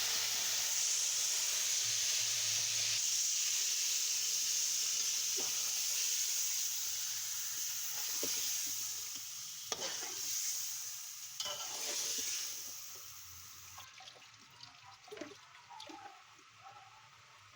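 Chicken masala sizzling in hot ghee with whole spices, stirred in the pot. A few spoon knocks come in the middle, and the sizzle dies down over the second half.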